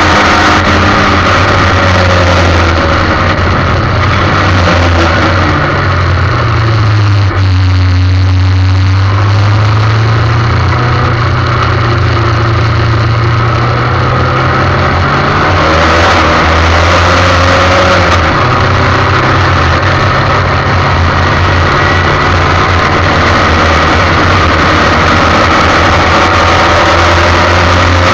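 Formula 1600 single-seater race car engine running hard, heard onboard. Its pitch drops about seven seconds in and climbs again, then drops once more around sixteen seconds and rises again.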